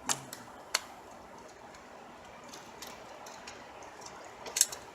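A few sharp clicks and taps of small hand tools and parts on a throttle body: one at the start, one just under a second in, and a quick cluster near the end.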